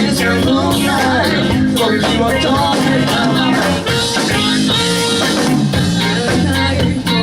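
Upbeat rock band music with a steady drum beat, bass and guitar under a sung vocal line.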